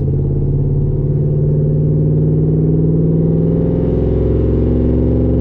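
5.3-litre V8 of a 2011 GMC Sierra, breathing through 1 3/4-inch long-tube headers, 3-inch Y-piped exhaust and a MagnaFlow bullet muffler, pulling steadily under load at about 3,000 rpm with an even, loud exhaust note.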